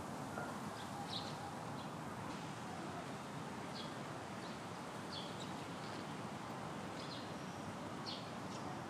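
Small birds giving short, high chirps every second or so over a steady outdoor background noise.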